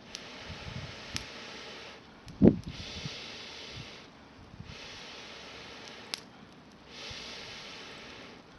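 Long breaths blown into a campfire to fan it, four hissing puffs of about two seconds each with short pauses between. A dull thump about two and a half seconds in is the loudest sound, and there are a couple of sharp crackles.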